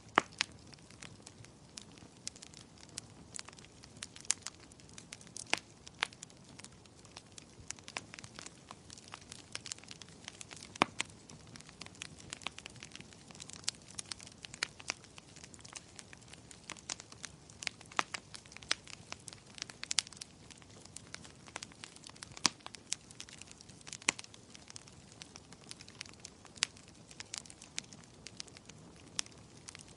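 Fireplace fire crackling, with sharp irregular pops a few times a second over a soft low hiss.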